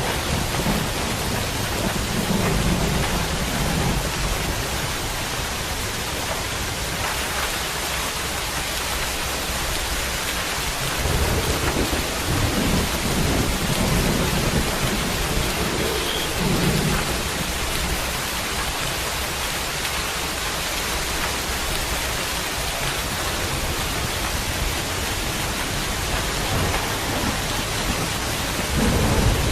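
Heavy rain falling steadily, a dense hiss of drops, with deep low rumbles swelling up a few times.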